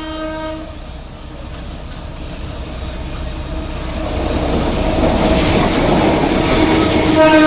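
A train horn sounds and stops under a second in, then an approaching train grows steadily louder with a rising rumble and rail clatter, and the horn sounds again near the end.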